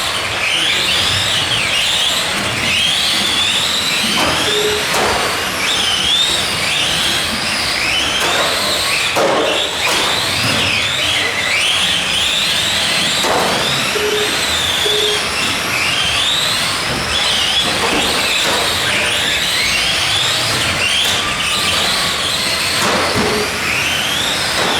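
Several Tamiya Euro Truck RC racers on TT-01E chassis, their electric motors and gears whining in overlapping rising and falling glides as they accelerate and brake around the track. An occasional knock cuts in.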